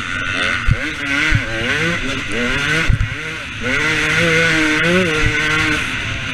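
KTM 250 SX two-stroke motocross bike's engine revving up and down over and over, its pitch held steadier for a couple of seconds in the second half, with four sharp thumps along the way.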